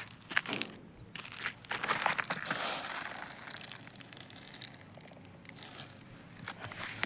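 Sun-dried black gram (urad) plants and pods crunching and crackling as they are disturbed, a dense run of sharp dry crackles.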